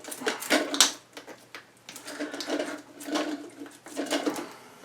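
Plastic fill-valve parts clicking and knocking against the toilet tank as the new valve and its washer are fitted, a few sharp knocks in the first second and then softer clattering and handling noise.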